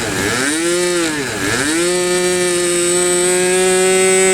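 Super Tiger two-stroke glow engine of an RC airplane buzzing at high pitch. Its pitch dips twice in the first second and a half, holds steady, then falls away at the very end.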